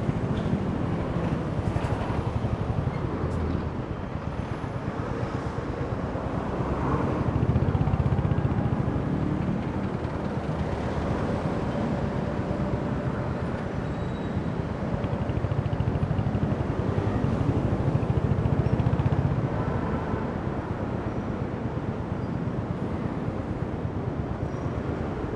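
Royal Enfield Hunter 350's single-cylinder engine and exhaust pulsing steadily under way, mixed with wind and road noise. It swells louder twice, about a third of the way in and again past halfway.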